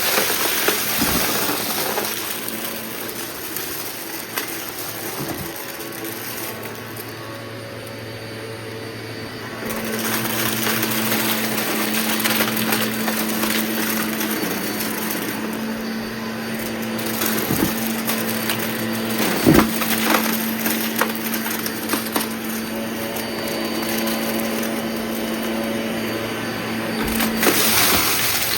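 Vacuum cleaner running and picking up a test mess, its motor hum stepping up higher and louder about ten seconds in, with crackling and sharp ticks as debris is sucked up.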